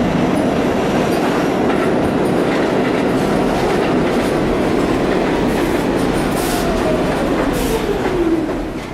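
New York City subway train running, a loud steady rumble of wheels on rail. Near the end a whine falls in pitch and the sound drops off as the train slows.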